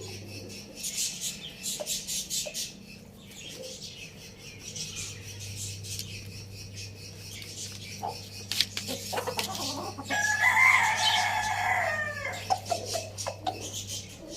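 A rooster crows once, a single long call of about two and a half seconds starting about ten seconds in. Before it there are scattered sharp clicks, over a steady low hum.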